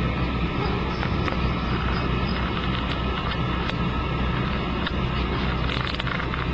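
Toilet water running in a steady rush, as from a toilet being flushed over and over and its tank refilling, with a few faint clicks.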